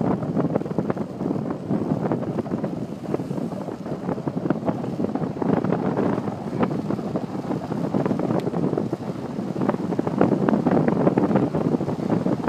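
Wind rushing and buffeting over the microphone while riding a bicycle, with many small irregular clicks and rattles mixed in; it gets a little louder near the end.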